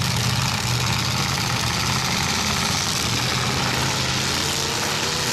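Demolition derby cars' engines running in the arena: a steady low engine drone under a constant hiss of noise, with a higher engine note coming in near the end.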